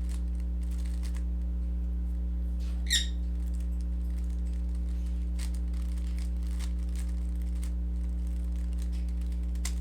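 Faint scattered clicks of a Rubik's cube being turned, over a steady low hum, with one short bird chirp about three seconds in.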